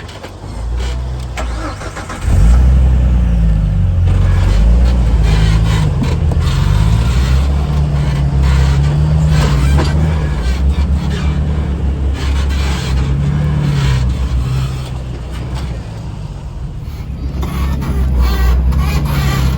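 Off-road vehicle engine heard from inside the cab, coming up loudly about two seconds in and revving up and down as the rig pulls forward over the obstacle on the winch line, with scattered knocks and clunks. It eases off briefly and picks up again near the end.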